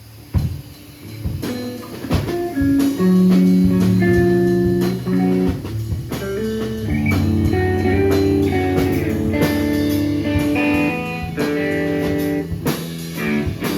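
Live band playing a song: guitar notes held over bass, with drum hits, starting about half a second in.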